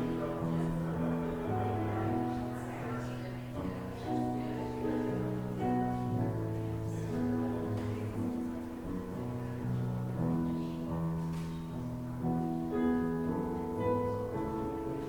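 Slow instrumental keyboard music: held chords that change about once a second.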